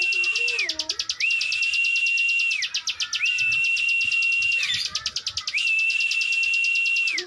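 Ciwah (klik-klik) songbird singing in full song: a repeated phrase of a high, steady whistle overlaid with a rapid clicking rattle. Each phrase lasts about a second and a half and drops away at its end, about every two seconds, four times. A lower wavering warble sounds in the first second.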